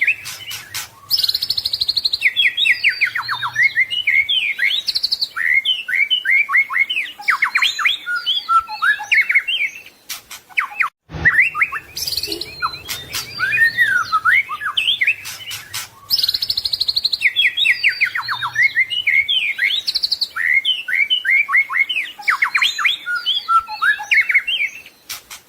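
White-rumped shama (murai batu) singing a long, varied song of rapid whistles, trills and chattering notes. About eleven seconds in there is a brief break, and the same stretch of song then repeats, as in a looped recording.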